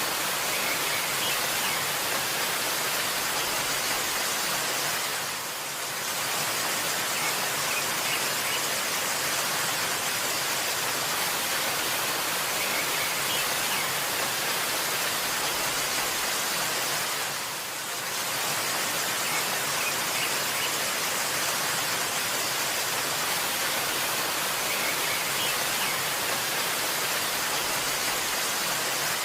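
Waterfall: a steady rush of falling water, with faint high bird chirps now and then. The level dips briefly twice, about five and seventeen seconds in.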